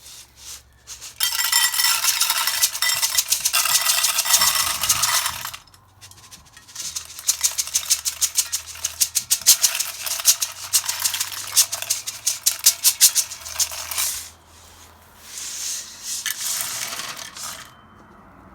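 Cats eating from a food dish: fast, rattling, clicking clatter in three long bursts, the middle one with several sharp clicks a second.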